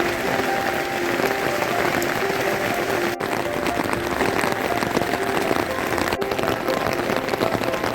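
Steady, dense patter of heavy rain falling on a surface, with a soft background melody playing under it.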